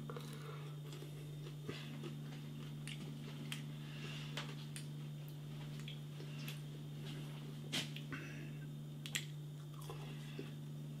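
A person eating a crisp air-fried skin-on potato fry: small scattered crunching and chewing clicks, with two slightly louder crunches near the end, over a steady low hum.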